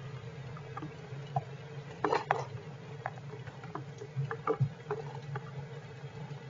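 Heavy rain dripping and tapping irregularly on the shelter, with a louder cluster of taps about two seconds in, over a steady low hum.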